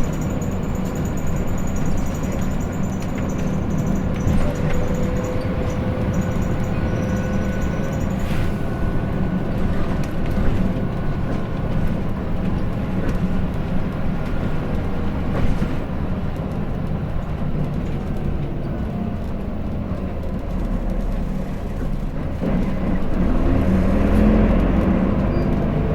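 Hino Blue Ribbon City diesel city bus heard from inside the cabin, running steadily between stops with a low engine and road rumble. About three-quarters of the way through it grows louder and the engine note climbs as the bus pulls harder.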